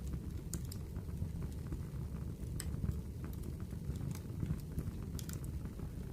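Wood fire crackling: a steady low rumble with irregular sharp pops and snaps scattered throughout.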